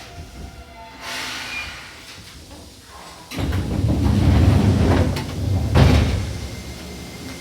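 Air-operated sliding passenger doors of a Seibu 2000-series electric train at a station stop. A short hiss of air comes about a second in, then about three seconds of heavy rumbling and thudding as the door panels slide, with a final thud.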